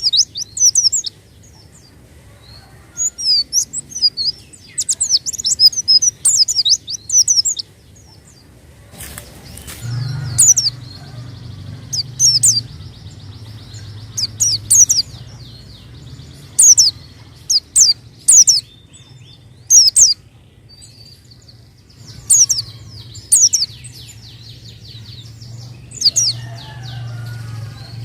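White-eye (pleci) singing: quick high chirping phrases repeated with short pauses. A low steady hum comes in about ten seconds in.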